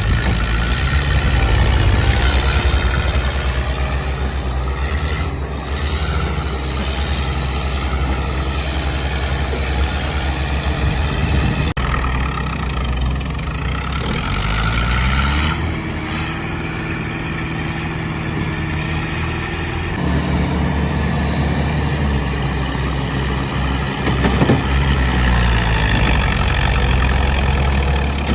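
Massey Ferguson tractor engine running at working speed, its note dropping and shifting abruptly a few times as the engine speed changes.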